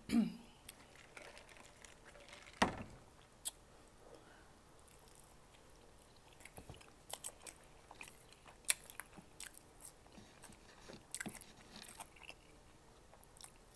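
Close-miked eating: a person biting and chewing a mouthful of a stacked multi-patty cheeseburger, with irregular soft mouth clicks and smacks. There is a louder short sound right at the start and a sharp click about two and a half seconds in.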